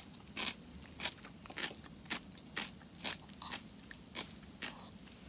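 A person chewing a mouthful of soft rice close to the microphone, with wet mouth clicks about twice a second.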